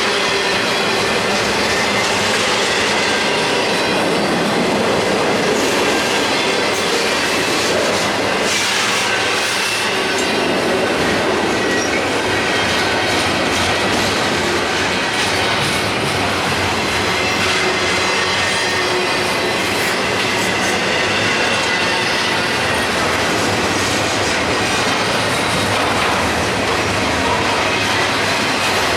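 Train rolling along the track: steady wheel-on-rail noise with a faint, high wheel squeal.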